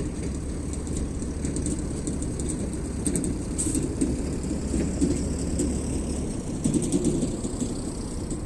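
Wood campfire crackling with scattered small pops, over a steady low rumble.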